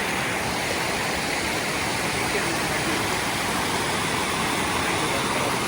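Waterfall and stream: a steady, even rush of falling water.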